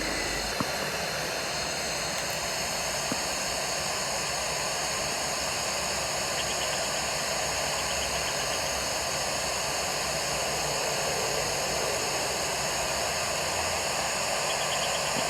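Steady rushing hiss of the nest camera's live background audio, even throughout with no distinct calls or events.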